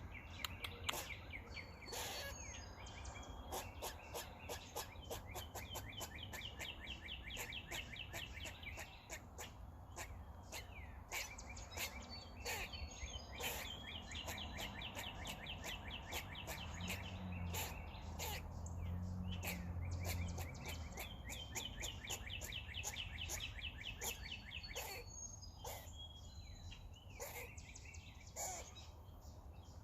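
Squirrel making noises: long runs of rapid, repeated high chattering pulses, several times over, with many sharp clicks between them.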